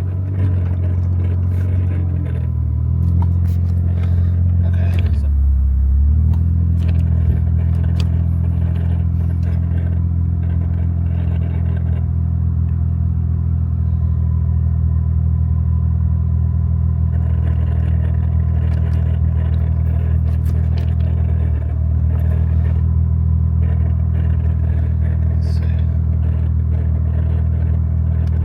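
Toyota 1JZ inline-six engine running at a steady low idle, heard from inside the car. Its pitch shifts briefly a few seconds in, then it settles. Faint light clicks and rattles are heard over it.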